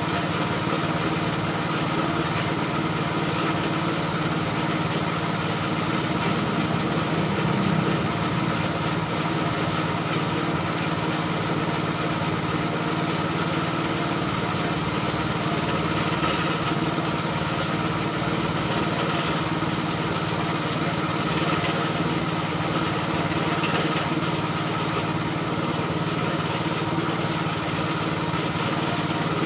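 A small engine or motor running steadily at an even speed, with a constant hiss.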